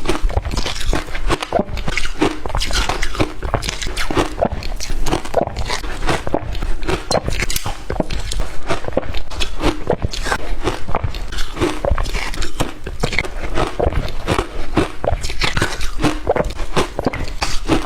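Shaved ice being bitten and chewed close to the microphone: a dense, irregular run of crisp crunches, several a second.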